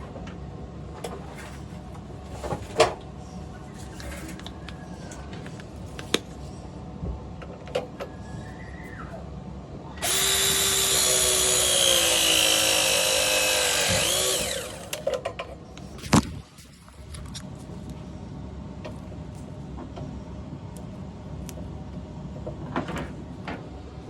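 A power drill runs for about four and a half seconds and slows as it stops, with scattered sharp clicks and knocks before and after it.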